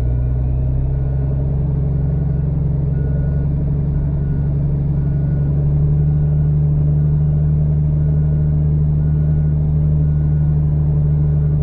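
In-cab drone of a Kenworth W900B dump truck's CAT C13 diesel engine pulling at low speed through mud, rising slightly in pitch and level about halfway through. A faint short beep repeats about once or twice a second in the background.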